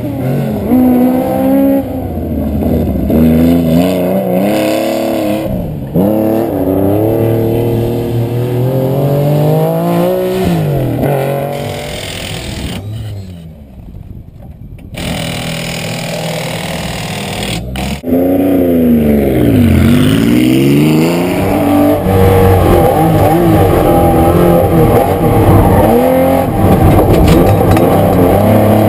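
Porsche 911 RSR's air-cooled flat-six engine being driven hard, its pitch repeatedly climbing and dropping through gear changes and lifts. It goes quieter for a few seconds about halfway through, then revs steadily high for the last third.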